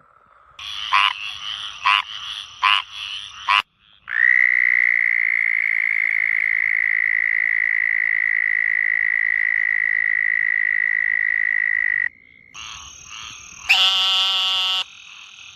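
Frog calls in separate bursts: a few short croaks, then one long, steady, high-pitched trill lasting about eight seconds that stops abruptly, then more croaking calls near the end.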